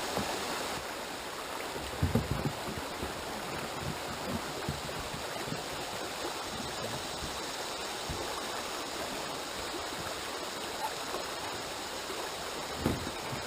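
River water rushing steadily over a shallow, log-choked stretch of the Buttahatchie River. A few low thumps come about two seconds in and once more near the end.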